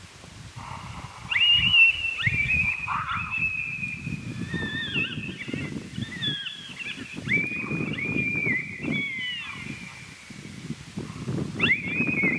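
Coyote howls and yips: several overlapping calls that rise sharply, hold high and slide down, running from about a second in until past nine seconds, with another rising howl near the end.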